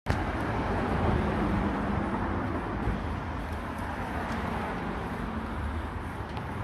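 City street traffic: a steady rumble of passing cars and other vehicles.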